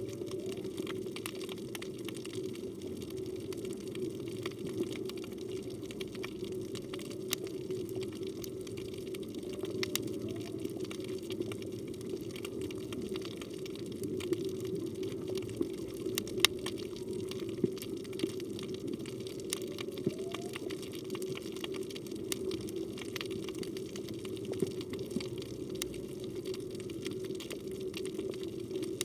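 Underwater ambience heard through a phone's waterproof housing: a steady muffled rush of water with scattered sharp clicks and crackles. Faint short rising calls come every several seconds.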